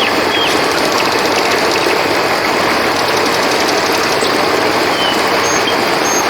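Steady rushing of a flowing river, with short high chirps scattered over it and a rapid high trill, like a cricket's, in the first couple of seconds.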